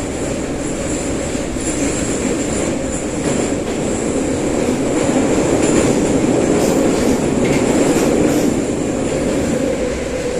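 Metro train, a St. Petersburg-built 81-717/714 'numbered' car, heard from inside while running between stations: a steady loud rumble of wheels and motors with some squeal from the wheels on the rails, growing a little louder in the middle.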